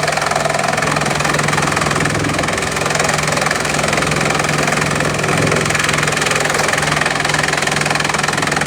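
Bamboo chipping machine running steadily: a continuous mechanical drone with a low hum, as bamboo is chipped to fill a truck.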